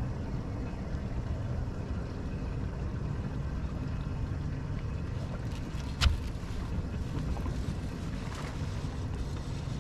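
Low steady rumble of a fishing boat on the water, with a single sharp knock about six seconds in.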